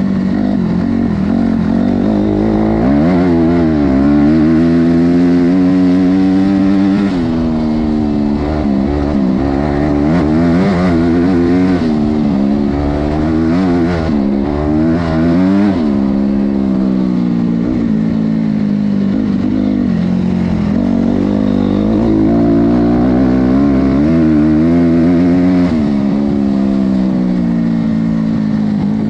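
Honda CRF250R's 250 cc four-stroke single-cylinder engine being ridden hard, its pitch climbing and dropping repeatedly as the throttle is opened and rolled off.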